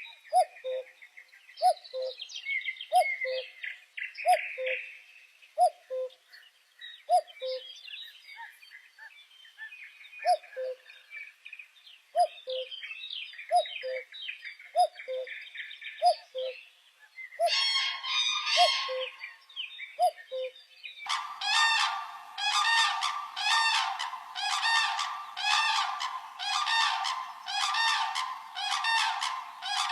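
Birds singing and calling together, with a short low two-note call repeated about once a second under higher, trilling songs. About two-thirds of the way through the recording changes abruptly to a louder, harsh call repeated about every two-thirds of a second.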